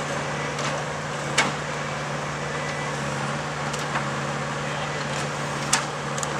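Engine of railway track-maintenance machinery running steadily, with a few sharp metallic clanks, the loudest about a second and a half in and again near the end.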